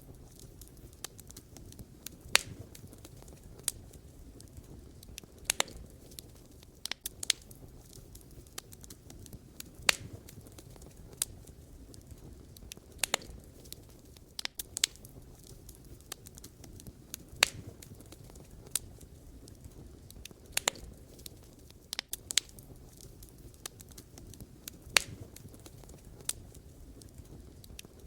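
Wood fire crackling: irregular sharp pops and snaps from burning firewood, a loud one every second or two with fainter ticks between, over a low steady rush of the flames.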